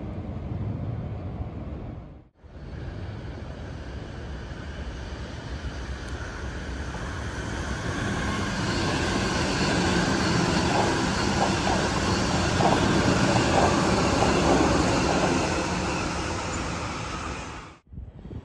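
Double-deck Sydney suburban electric train running through the station, growing louder to a peak in the middle of the clip. Near its loudest there is a run of short wheel clacks, then the sound dies away.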